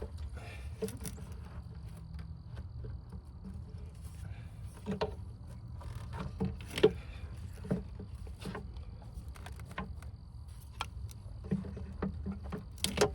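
Scattered light knocks, clicks and scraping as an intake manifold is worked down into a crowded engine bay, bumping against hoses and surrounding parts, with the sharpest knock about halfway through and a cluster of them near the end. A steady low rumble runs underneath.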